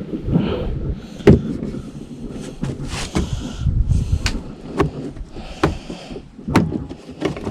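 Plastic car trim being handled and pressed into place: a series of irregular sharp clicks and knocks, the loudest about a second in, with scraping and rustling between them.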